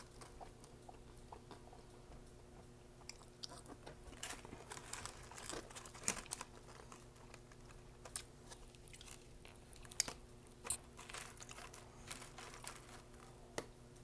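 A person chewing and biting fast food up close, a run of small crackling mouth clicks and crunches that starts a few seconds in, with a few sharper clicks among them.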